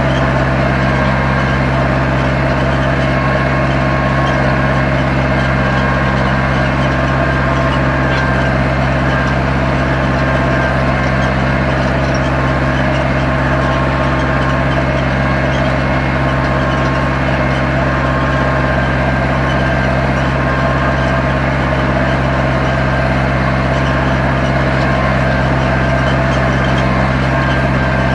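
Zetor 7245 tractor's four-cylinder diesel engine running at a steady speed while pulling a plough, with an even drone that holds without change.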